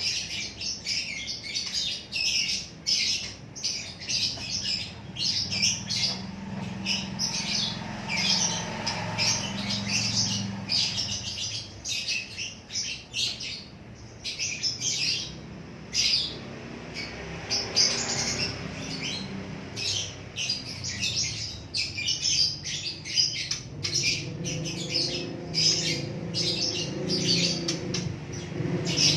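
Small birds chirping rapidly and continuously, a dense run of short, high chirps.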